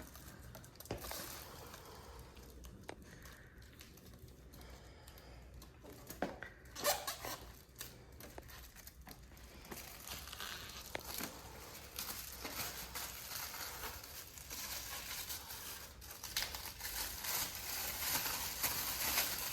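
Protective plastic film being peeled off and crinkled while unboxing a Breville Barista Touch espresso machine: scattered crackling and tearing, with a few knocks, growing denser near the end.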